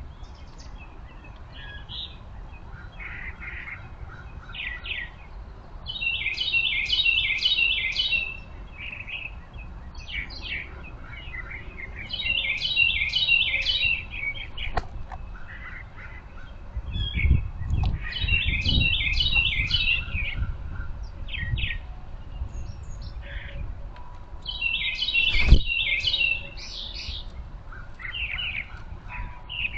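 A songbird repeats the same quick, trilled song phrase four times, about every six seconds, with other birds chirping briefly in between. There are a few low thumps in the middle and a single sharp knock near the end.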